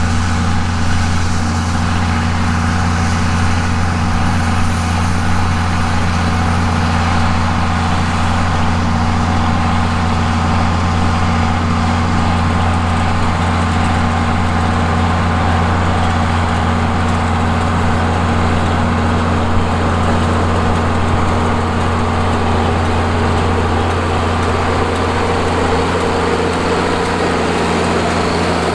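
John Deere 4430 tractor's turbocharged 6.6-litre six-cylinder diesel running steadily under load as it pulls and drives a round baler baling hay.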